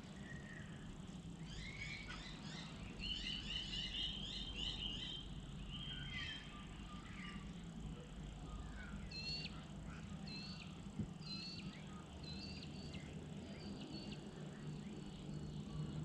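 Wild birds calling: a busy run of quick chirping notes, then a string of short, sharp whistled notes repeated a little under a second apart, over a low steady hum.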